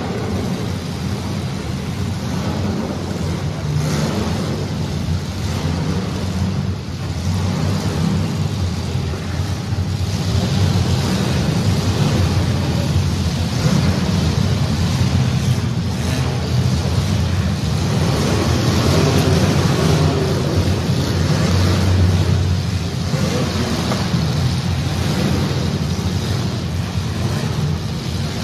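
Engines of welded compact demolition-derby cars running and revving together, a loud, continuous din that grows louder about a third of the way in.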